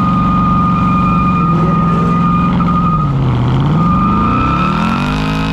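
Car engine held at high revs. The revs drop about three seconds in, then climb again and ease off near the end. A steady high-pitched squeal runs over the engine.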